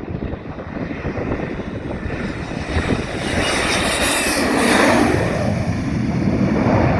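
Panavia Tornado ECR jet with its twin RB199 turbofans passing by. The jet noise swells to a peak about four to five seconds in, with a whine sliding down in pitch as it goes past, then eases to a low rumble.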